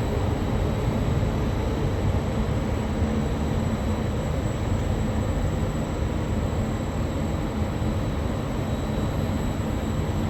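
Regional train running steadily at the station platform: an even low rumble with a faint, steady high whine above it.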